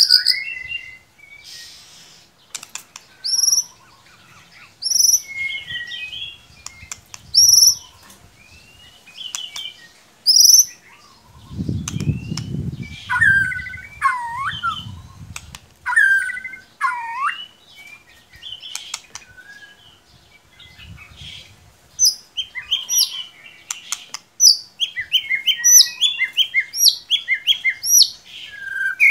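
White-rumped shama (murai batu) song played as a lure recording: clear whistled notes, a series of short rising high notes repeated about once a second, and varied sweeping and chattering phrases that grow dense near the end. A low rumble sounds for a few seconds just before the middle.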